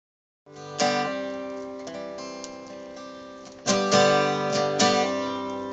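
Acoustic guitar strummed, a few full chords that each ring out and fade before the next.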